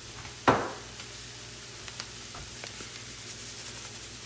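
Corn kernels frying in butter and bacon grease in a skillet, a steady low sizzle. A sharp knock about half a second in, and a few light clicks later.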